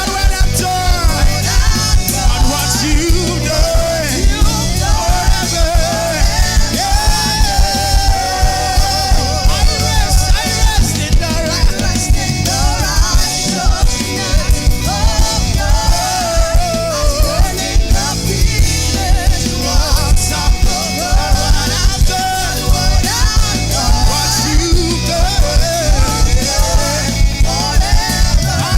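Live worship band playing an upbeat song with a steady, quick drum beat, with voices singing the melody along with it.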